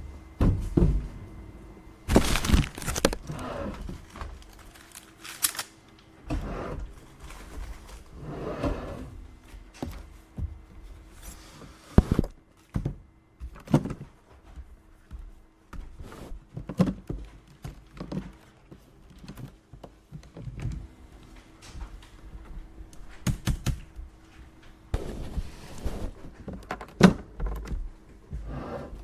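Office desk-work sounds: irregular thumps, knocks and clicks of objects being handled and set down, with a few short stretches of paper rustling. A faint steady hum underneath stops near the end.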